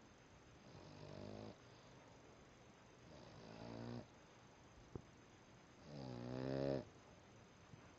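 Boston Terrier snoring: three snores, each about a second long and about two and a half seconds apart, the last the loudest.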